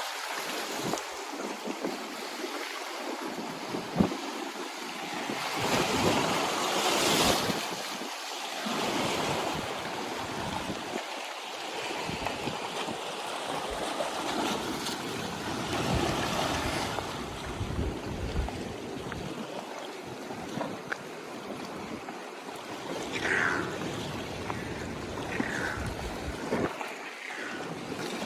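Ocean waves washing against the atoll's shoreline and sea wall, swelling and ebbing, with wind on the microphone. A single sharp click about four seconds in, and a few short high chirps near the end.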